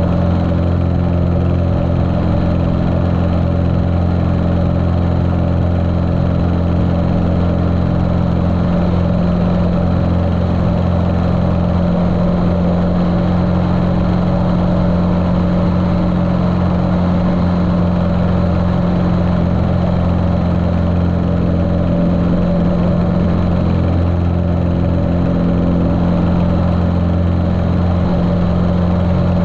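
Continental O-200 four-cylinder air-cooled engine of a Cessna 150L running at a steady, unchanging speed, heard muffled through a GoPro's waterproof case.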